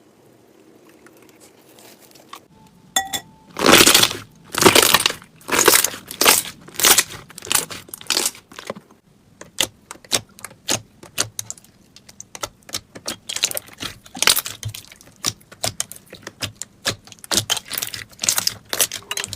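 Slime being pressed and worked by hand, making irregular popping and crackling sounds, several a second, that start about three seconds in.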